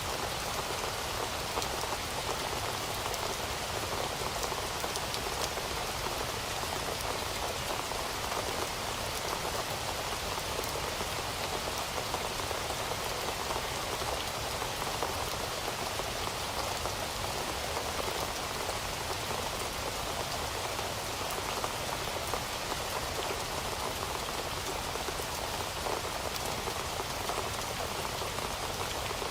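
Heavy rain falling steadily, a dense even hiss of many fine drop patters with no letup.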